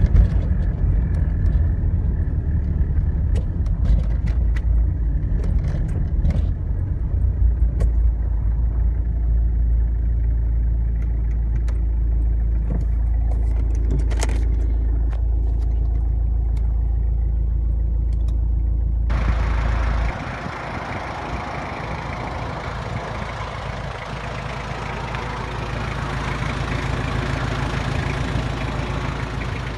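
The Jeep Cherokee XJ's 2.5 VM turbo-diesel four-cylinder running with a steady low engine note and scattered clicks. About two-thirds of the way through, the low note drops and a steady, higher hiss takes over.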